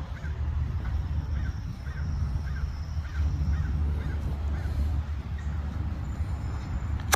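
Birds calling in a quick repeated series of short calls, over a steady low rumble.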